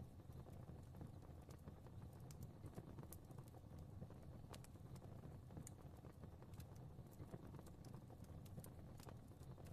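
Faint fireplace fire crackling: a soft, steady low rumble of flames with irregular small pops and snaps scattered throughout.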